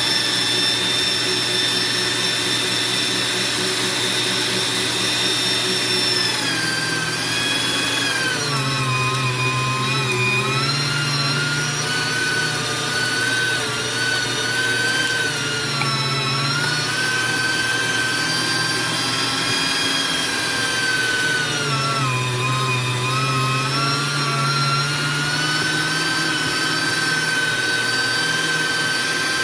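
AARTVARK TEES electric meat grinder's motor running steadily with a high whine. Its pitch sags twice as it labours on beef, which the owner puts down to meat that wasn't cold enough and a blade that wasn't on right.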